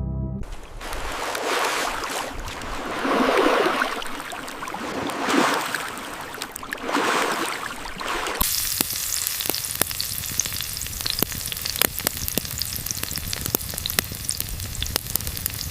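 Food frying in a pan, sizzling in swells that rise and fall four times. A little past halfway the sound changes abruptly to a steady bright sizzle with many sharp crackling pops.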